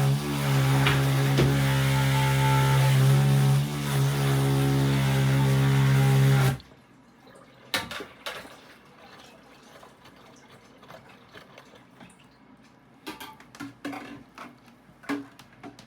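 Aidoo 1 kg mini washing machine humming steadily with a low mechanical drone, which cuts off abruptly about six and a half seconds in. The rest is much quieter, with scattered small clicks and knocks, and likely water moving in the tub.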